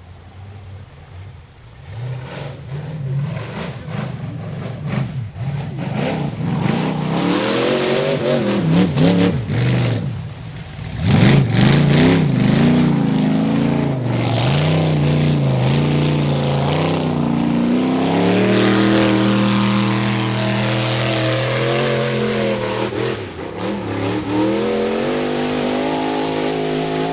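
Rock bouncer buggy's engine revving hard over and over, its pitch swinging up and down as the throttle is worked. There is a sharp jump in revs about eleven seconds in, then a long stretch held at high revs in the second half.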